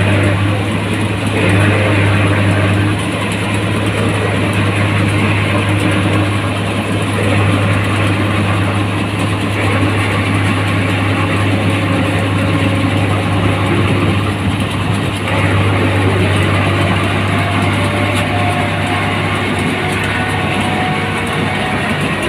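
New Holland 1545 combine harvester running steadily: a deep, even engine drone with a dense mechanical noise over it.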